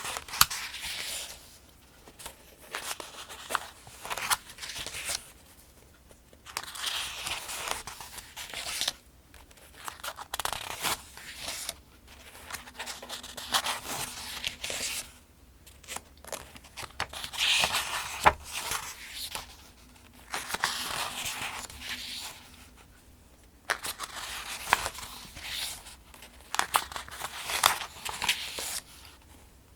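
Paper pages of a softcover almanac being turned one after another at a steady pace: each turn makes a rustle and crinkle of paper, with sharp little snaps as the pages flip, and short pauses between turns.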